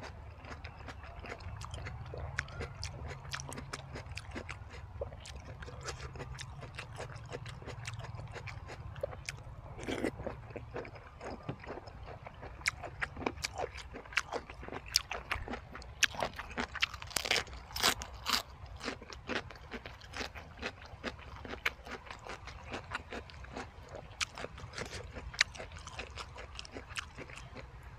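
Close-up chewing and crunching of a spicy jellyfish salad, a steady run of wet crackles and clicks that grows busier in the second half.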